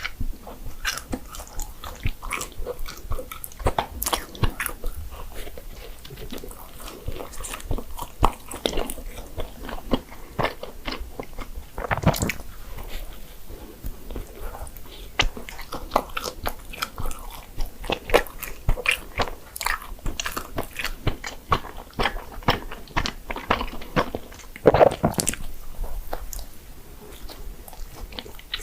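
Close-up eating of doughnuts: continual chewing with small crackling bites and wet mouth clicks, and a couple of louder bites or smacks, one midway and one near the end.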